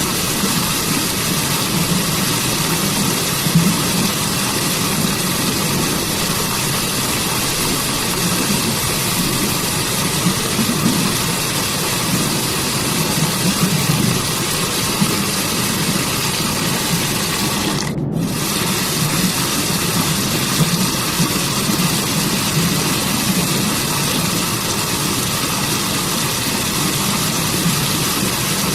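Forest waterfall running steadily: a constant, even rush of falling water with a deep low rumble under it. The hiss cuts out for an instant about two-thirds of the way through.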